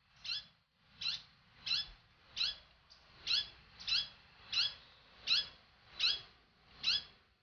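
A bird repeating one short, high, rising note ten times at an even pace, a little under a second apart.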